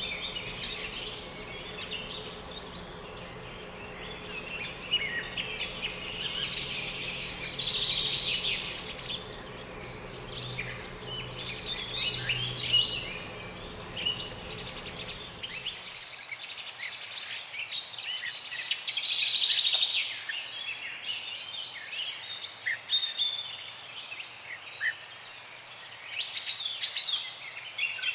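Many small birds chirping and singing at once in a dense, overlapping morning chorus of quick high chirps and trills. A low steady hum underneath cuts off suddenly about halfway through.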